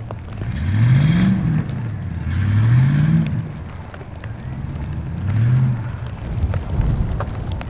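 A car engine revving. Its pitch rises and eases off three times.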